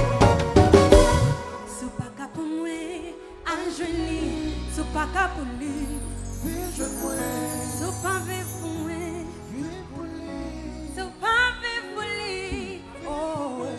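Live band music: loud for the first second or so, then a softer passage with long held bass notes under a wavering melody.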